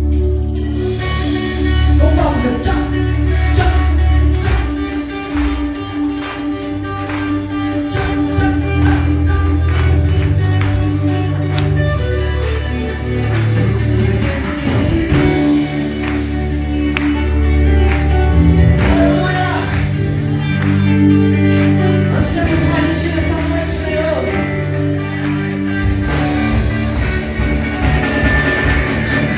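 Live church band playing worship music, with electric guitar, bass and drums carrying a slow, steady groove and a voice singing over it.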